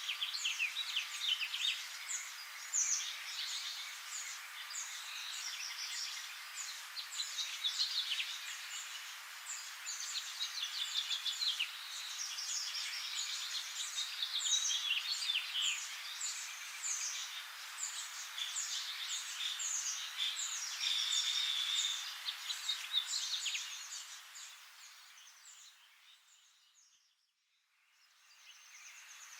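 Many small birds chirping and twittering in a busy, continuous chorus, fading away a few seconds before the end and returning at the very end.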